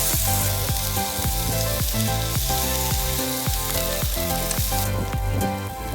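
Food sizzling as it fries, over background music with plucked notes. The sizzling hiss drops away about five seconds in, leaving the music.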